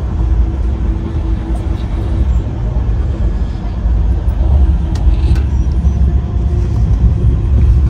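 Steady low rumble of a passenger train running, with a faint hum over the first couple of seconds and a few light clicks.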